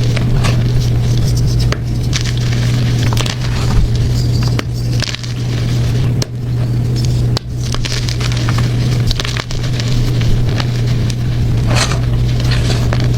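Blocks of gym chalk crunching and crumbling as they are crushed, a continuous run of crisp crackly crunches, over a steady low hum.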